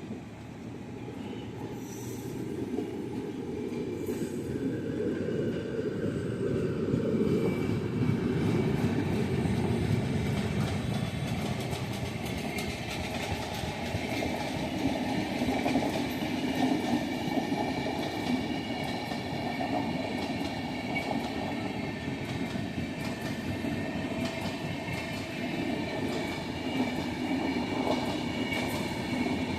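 Express passenger train running on the rails, its wheels clattering over the track in a dense rumble. The sound grows louder over the first several seconds, then holds steady, with a faint high whine joining about twelve seconds in.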